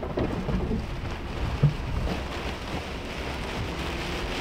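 Heavy wind-driven rain pelting a truck's windshield and body, heard from inside the cabin, over a steady low noise of severe storm wind buffeting the vehicle. A single thump about a second and a half in.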